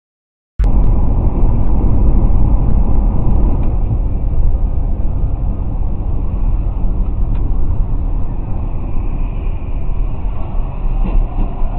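Loud, steady low rumble of a moving vehicle, cutting in abruptly about half a second in.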